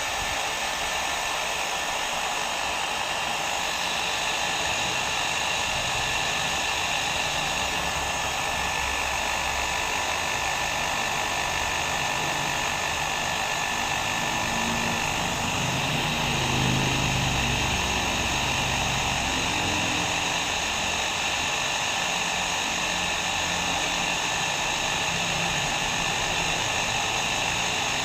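Electric hair dryer running steadily: a continuous rush of blown air with a steady fan whine through it.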